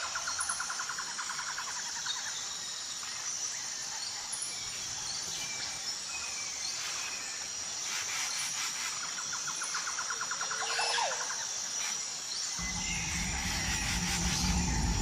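Birds calling over a steady high-pitched insect drone, with two spells of a rapid trilling call and scattered chirps. A low rumble comes in near the end.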